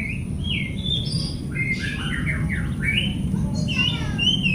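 Oriental magpie-robin (kacer) singing: a run of warbling, up-and-down whistled phrases, broken in the middle by a burst of harsh, scratchy squawks, over a steady low hum.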